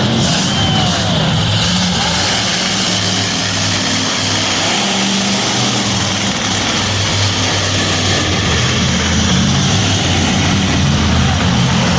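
A monster truck's engine running loudly and steadily, a low rough drone with a wide roar of noise over it.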